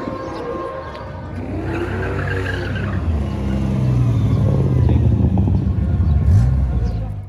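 A car engine running and revving, growing louder over the last few seconds, then cut off suddenly.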